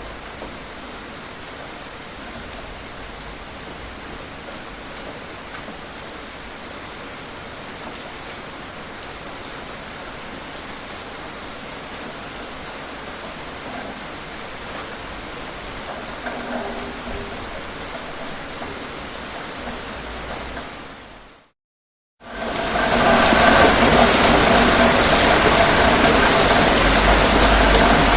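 Steady rain falling, a soft even hiss that fades out about 21 seconds in. After a second of silence, a much louder, different steady noise with a few steady tones cuts in.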